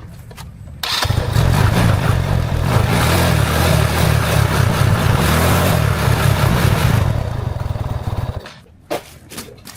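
Motorcycle engine starts abruptly about a second in, runs loudly for about seven seconds, then cuts off.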